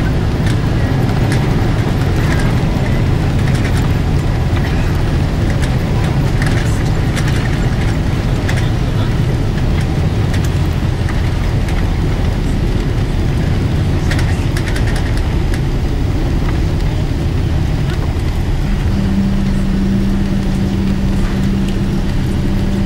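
Steady cabin rumble inside a Boeing 777-300ER, the engines and airframe heard from a window seat, with light rattles and clicks from the cabin. A steady low hum comes in near the end.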